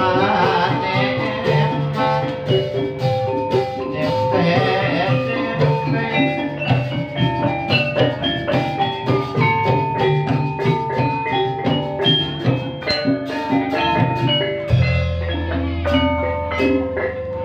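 Live ebeg accompaniment music: quick struck metallophone notes over drums in a steady rhythm, with a low held note coming in near the end.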